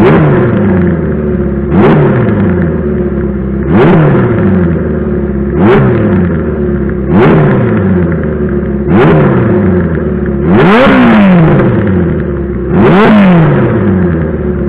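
Honda CB400F's air-cooled four-cylinder engine, warm at about 80°C oil temperature, breathing through a hand-bent short header exhaust and being blipped from idle: quick revs roughly every two seconds, each falling straight back to idle, with one held for over a second about ten seconds in.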